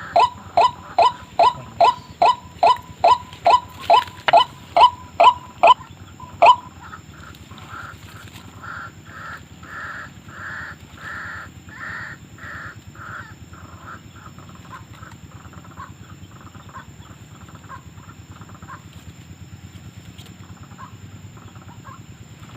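White-breasted waterhen calling: a fast run of loud, evenly spaced notes, each dropping in pitch, stops about six seconds in. A softer train of repeated notes follows, swells, then fades away.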